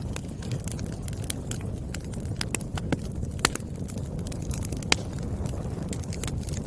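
Wood fire burning with a steady low rumble and irregular crackles and pops of the firewood, two sharper pops about three and a half and five seconds in.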